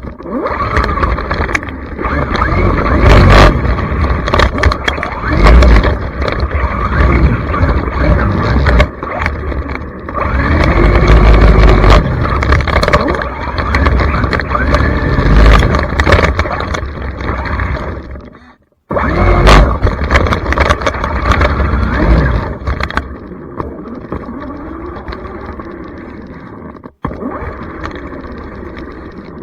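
Traxxas Mini XRT RC truck's electric motor whining, its pitch rising and falling over and over as the truck speeds up and slows, over loud rough noise. The sound cuts off abruptly twice.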